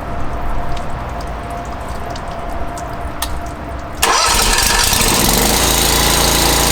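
Pressure washer's engine starting about four seconds in and settling into a steady, loud run, after a quieter steady hum.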